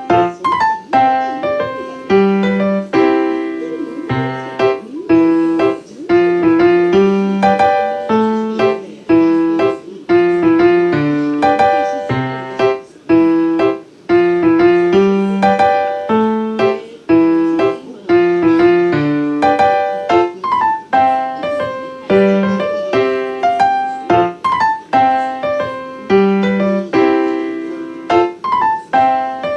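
Background piano music: a solo piano piece played at a steady, even pace.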